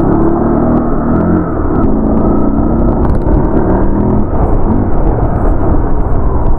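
Motorcycle engine running while riding, its pitch rising and falling with the throttle, under heavy wind noise on the microphone.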